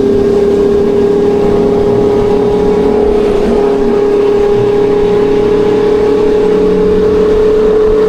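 Kawasaki Ninja 1100SX's inline-four engine running under way, holding one steady, high note.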